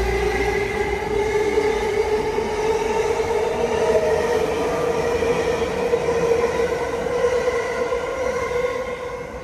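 Yokosuka Line electric train running past, with a steady whine of several tones that climbs slowly in pitch over running noise. It fades toward the end as the train clears.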